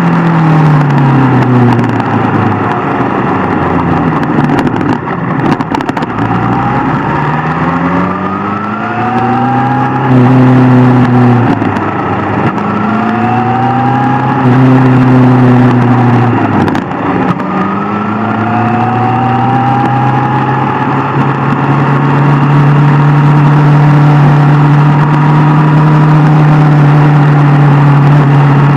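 Inline-four sport motorcycle engine under way. The revs fall at first, then climb in several rising sweeps with a drop in pitch between each, as the bike shifts up through the gears. From about three quarters of the way in, the engine holds a steady note at cruising speed over a steady rushing noise.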